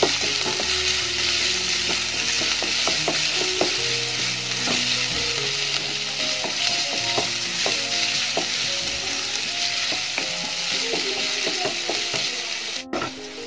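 Chopped ginger, green chillies and curry leaves sizzling in hot coconut oil in a non-stick kadai, stirred and scraped with a wooden spatula that taps against the pan many times. The ginger is being sautéed until lightly browned, not burnt.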